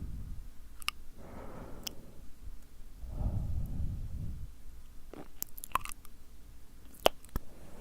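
Close-miked ASMR mouth sounds: a handful of wet, sticky lip and tongue clicks, with two soft breaths blown onto the microphone, one about a second in and one about three seconds in.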